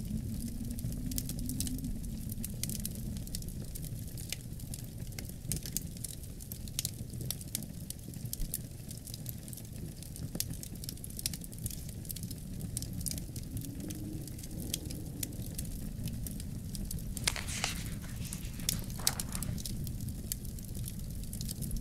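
Wood fire crackling in a fireplace with many small, quick pops and two louder snaps near the end, over low, steady wind moaning with a slowly wavering pitch.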